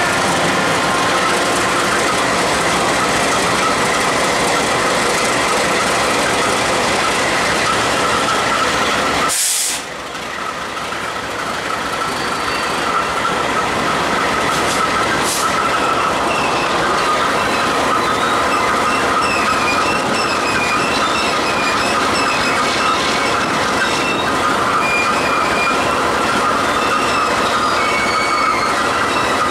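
Freight train with diesel locomotives moving past, its steel wheels squealing against the rails in wavering high tones. The sound breaks off with a click about a third of the way through and then builds back up.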